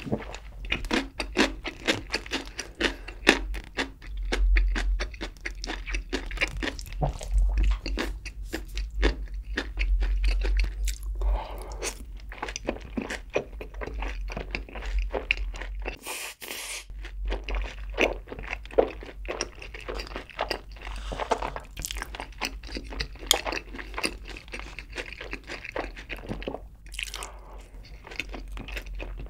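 Close-miked chewing of sauce-coated Korean fried chicken: a continuous run of short crunches and crackles as the pieces are bitten and chewed.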